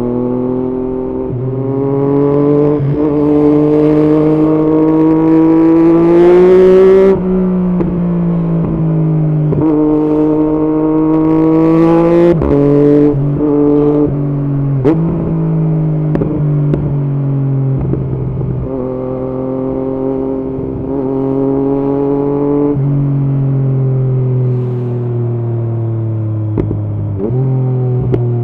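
Yamaha MT-09's three-cylinder engine through an aftermarket Arrow exhaust, ridden under way. The revs climb in two pulls, each ending in a sudden drop in pitch about seven and twelve seconds in, then the engine runs steadier, sagging slowly with a few smaller rises.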